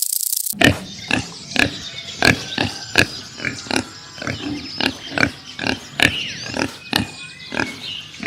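An animal making short, sharp sounds, about two a second and irregularly spaced, with faint high-pitched calls in between. It starts suddenly about half a second in.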